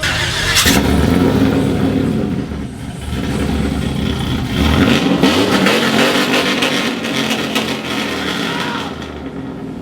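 A truck's engine starting up about half a second in and being revved loudly, the exhaust note rising and falling through the rest of the clip.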